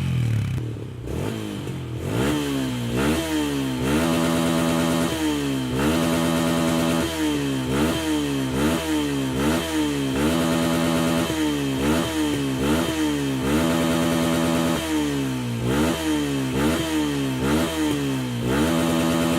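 Yamaha Y15ZR's single-cylinder four-stroke engine through an aftermarket racing exhaust, revved in quick repeated throttle blips, each one rising in pitch and dropping straight back, about one to two blips a second.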